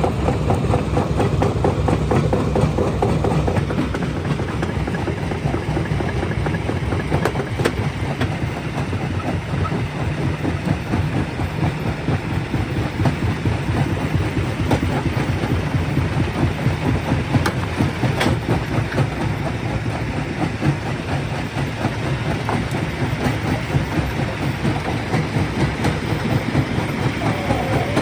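Rock crusher running, a steady heavy mechanical rumble with dense rattling of stone, and a couple of sharper knocks.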